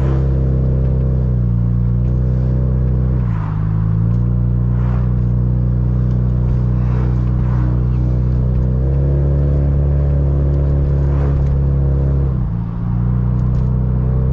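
Car engine running while driving, a steady low drone whose pitch shifts abruptly a few times, about three and a half, nine and twelve and a half seconds in.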